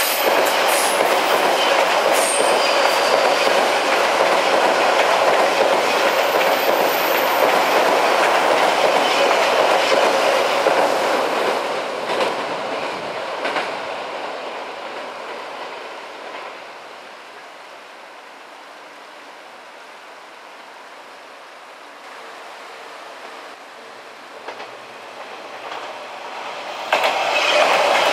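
Odakyu electric train crossing a railway bridge, its wheels clattering over the rail joints, loud at first and fading away after about twelve seconds. Near the end a loud train sound starts again suddenly.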